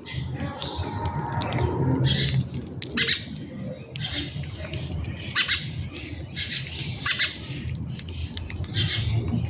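A mix of small birds chirping and squawking at a feeding spot, with several loud, sharp calls standing out.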